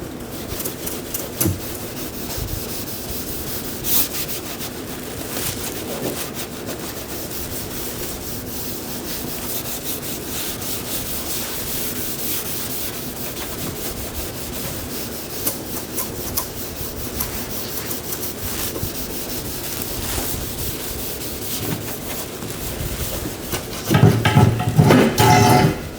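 Sanding or rubbing down a car body panel: steady scraping strokes with occasional light knocks. Near the end a louder burst with a buzzing, pitched sound lasts a second or two.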